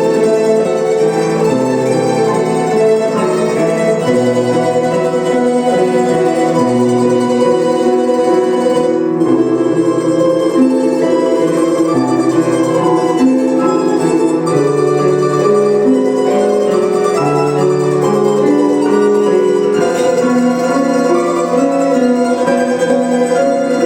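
Domra quartet playing: several domras, plucked Russian folk lutes, sounding melody and accompaniment lines together in steady ensemble music.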